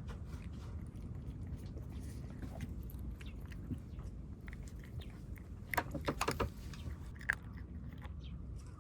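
Cats chewing and biting at their food, with many small clicks and a cluster of louder crunches about six seconds in.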